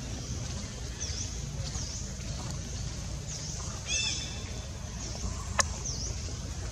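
Forest birds calling with short, high, dipping chirps repeated every second or so, over a steady low rumble. A higher arched call rings out about four seconds in, and a single sharp click about a second and a half later.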